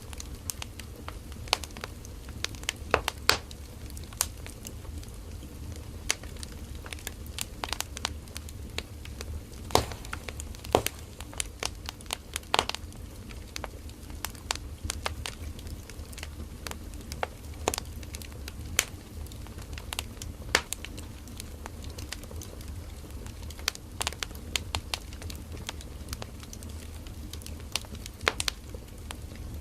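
Firewood burning in an open fire, crackling and popping: irregular sharp snaps several times a second over a steady low rumble of the flames.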